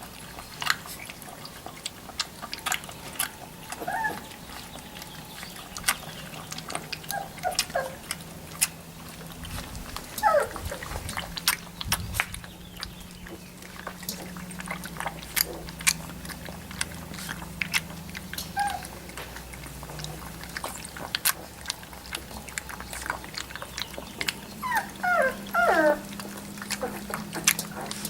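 Three-week-old Labrador retriever puppies squeaking and whimpering now and then in short, high, wavering calls, with a cluster of squeaks near the end. Frequent small clicks and rustles run throughout over a steady low hum.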